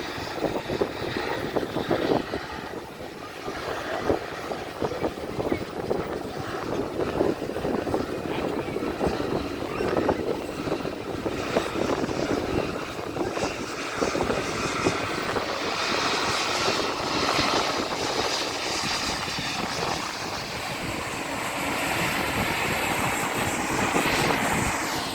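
Jet airliner engine noise at an airport: a steady, loud rushing rumble with a crackle. A higher whine builds from about two-thirds of the way through.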